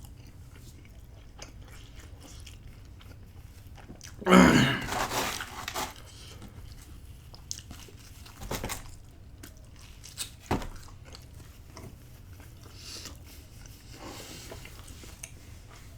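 A person biting and chewing pepperoni and jalapeño pizza close to the microphone, with scattered sharp mouth clicks and a louder burst of sound about four seconds in.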